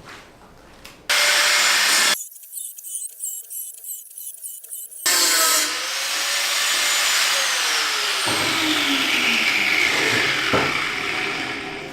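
Electric power tool working on steel, starting and stopping abruptly as if cut together. In the last part its motor tone falls steadily in pitch, as it does under load.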